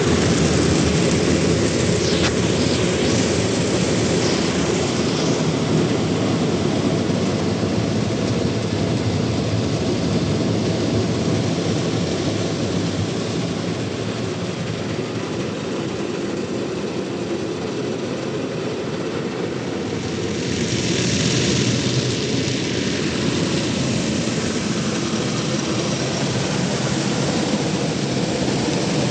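Automatic tunnel car wash running: a steady rush of machinery and water, with a brighter hiss of spray for a few seconds about twenty seconds in.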